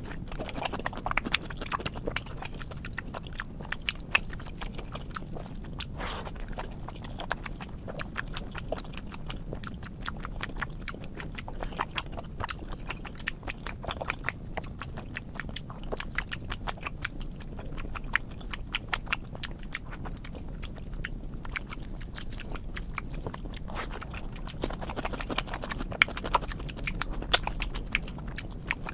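Close-up eating sounds: a person chewing and biting into food with wet, rapid clicks and smacks, going on without a break.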